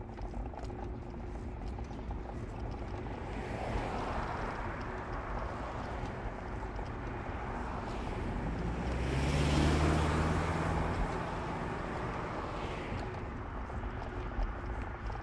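Steady road and engine noise of a car driving through town. A passing vehicle's noise swells from about four seconds in, peaks near ten seconds with a low engine drone, and fades again.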